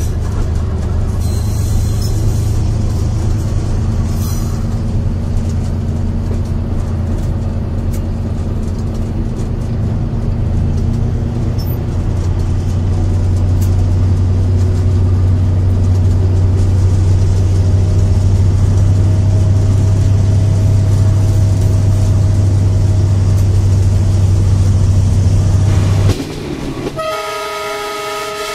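Train running with a steady low rumble. Near the end the rumble drops away and a train horn sounds one blast.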